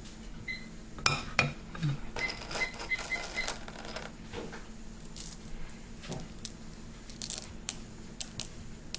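Spoons clinking and scraping against a bowl in a scatter of light, irregular clicks, with a short run of quick ringing taps about two to three seconds in.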